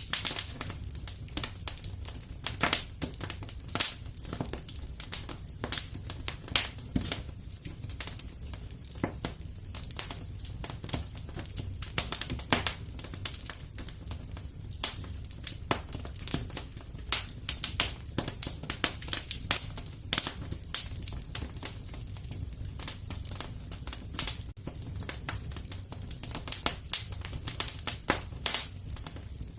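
Wood fire crackling steadily in a fireplace, with many irregular sharp pops and snaps over a low rumble.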